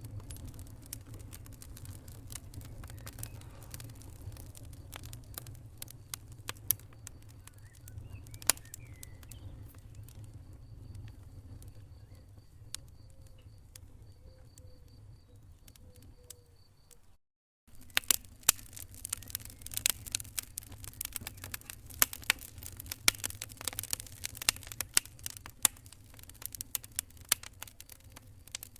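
Wood fire crackling in a fireplace: sharp, irregular pops and snaps over a low steady rumble of flames. The sound cuts out for half a second about 17 seconds in, then resumes with denser, louder crackling.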